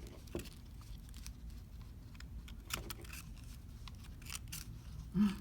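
Folded paper of an origami drinking bird rustling and crinkling in fingers as it is worked like a puppet to peck, a few scattered crackles over a low steady hum.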